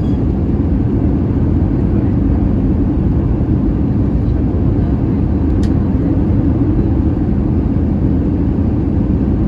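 Steady low rumble of an Airbus A320 in flight: engine and airflow noise heard inside the passenger cabin.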